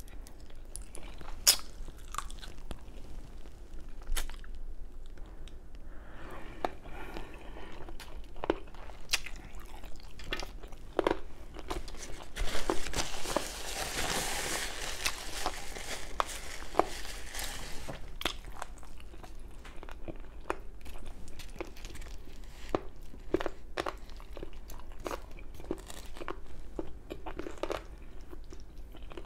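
Close-miked chewing of chicken, with many sharp wet mouth clicks and smacks and a denser stretch of crunchy chewing about halfway through.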